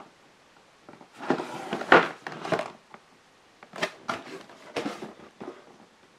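Cardboard shoe box being handled on a tabletop: two or three spells of rustling and scraping, with a few light knocks and clicks and quiet gaps between them.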